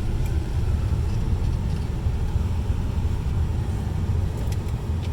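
The truck's engine idling as a steady low rumble.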